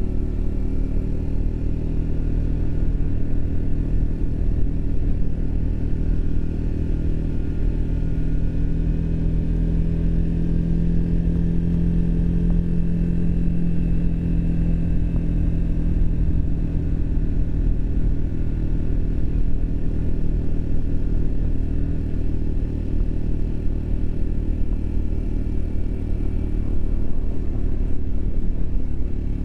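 Triumph Speed 400's single-cylinder engine running steadily under way. Its note rises a little and gets louder through the middle, then eases back.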